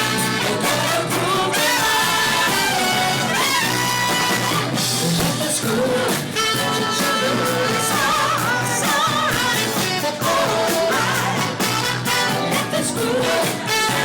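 Live band playing a song with a singer's voice carrying the melody over the full band.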